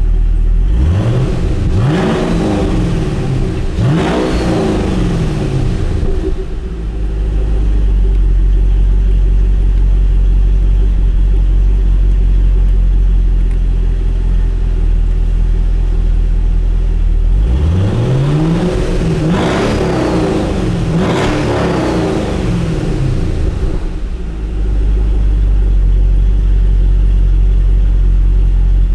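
2012 Cadillac CTS-V's 6.2 L supercharged LSA V8 idling steadily, revved twice in quick succession a second or so in and twice again about two-thirds of the way through, the engine speed climbing and falling back to idle each time.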